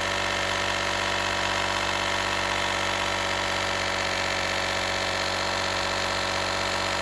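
Small 12-volt piston air compressor built into a Harbor Freight Viking jump pack running steadily with a buzzing hum while inflating a car tyre to about 34 psi.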